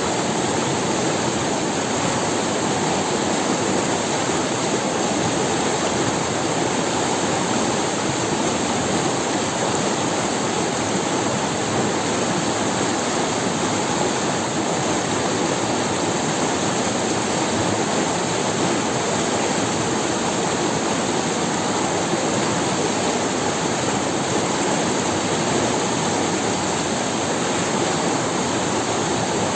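Forest river rushing over stones, a steady, unbroken rush of water.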